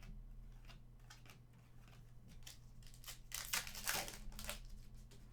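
Hockey trading cards and their pack wrapper being handled. Scattered short rustles, with a louder cluster of crinkly rustling from about three to four and a half seconds in.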